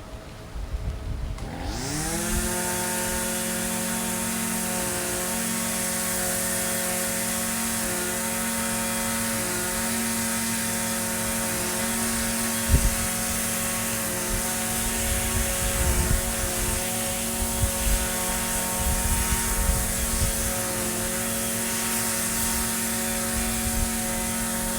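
Echo SRM-2620 string trimmer's two-stroke engine speeding up quickly about a second and a half in, then running at a steady high speed. There is a single sharp knock about halfway through.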